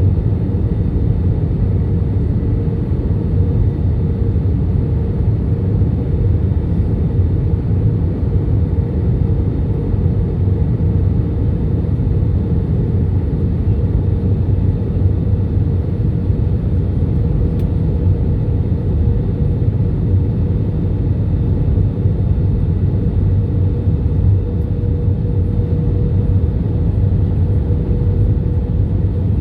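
Airliner cabin noise: a steady low rumble of engines and airflow with a thin, constant hum above it.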